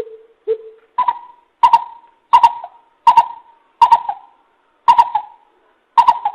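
Greater coucal calling: a series of deep hoots, the first two lower, then stepping up to a higher pitch and repeating about once every second or less.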